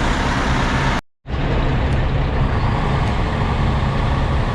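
Semi tractor's diesel engine running steadily, a loud, even rumble, broken by a sudden dropout of about a fifth of a second about a second in.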